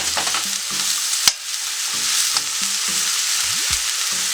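Chicken strips and sliced garlic sizzling steadily in hot olive oil in a frying pan, with one sharp knock about a second in.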